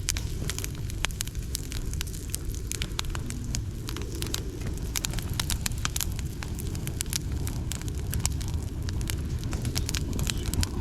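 Dry dead bamboo, twigs and leaves burning in a fire pit: dense crackling with many sharp pops over a low, steady rumble.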